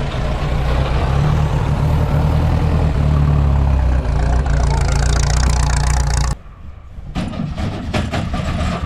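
Old car engine running steadily and loudly with a deep, even note, cutting off abruptly a little over six seconds in; quieter clicks and knocks follow.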